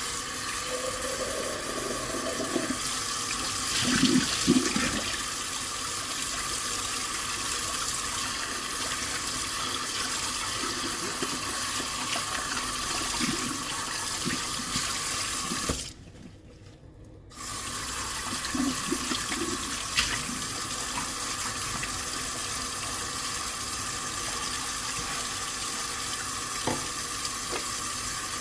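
Tap water running steadily into a kitchen sink during hand dishwashing, with a few soft knocks of dishes being handled. The stream stops for about a second and a half around the middle, then runs again.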